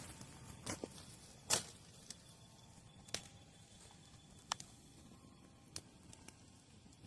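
Wood bonfire crackling: sharp pops at irregular intervals, the loudest about one and a half seconds in, over a faint low hiss.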